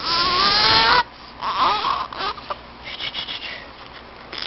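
Baby making a long high-pitched, cry-like squeal that stops about a second in, followed by a shorter whimper and a few soft fussing noises.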